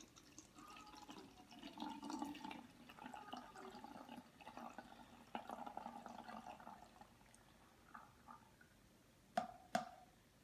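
Liquid being poured into a small model volcano, trickling and dripping for several seconds, then two short sharp knocks near the end.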